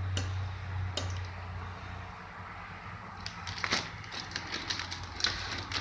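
Scattered light clicks and crackles of raw chicken thigh and its packaging being handled, thickening from about three seconds in, over a low hum that fades out early.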